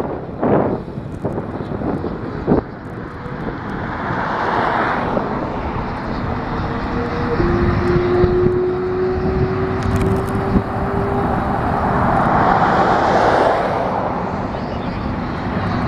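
Freeway traffic rushing steadily, swelling twice as vehicles pass, with a faint steady hum in the middle.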